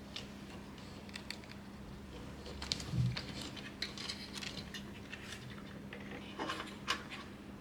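Small clicks, taps and light knocks of hands handling computer parts and tools during assembly, with a soft thump about three seconds in and a quick cluster of clicks near the end.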